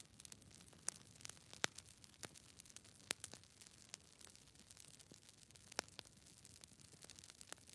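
Faint hiss with scattered, irregular clicks and crackles; a few clicks stand out louder.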